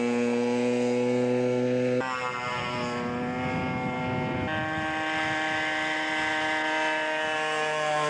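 Scale model airplane engine running steadily in flight, holding an even pitch, with sudden jumps in pitch and tone about two and four and a half seconds in.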